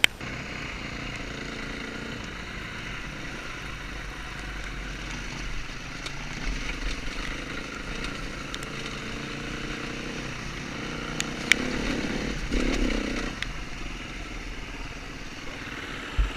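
Dirt bike engine running and revving unevenly, with a louder burst of throttle about twelve and a half seconds in and a couple of sharp clicks just before it.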